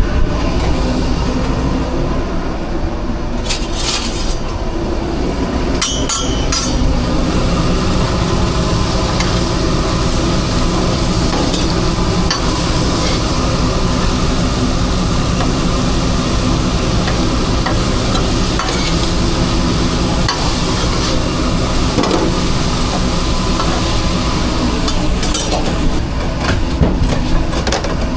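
Steady low machine rumble with a constant hum, with a few short clicks and clatter of kitchen work over it.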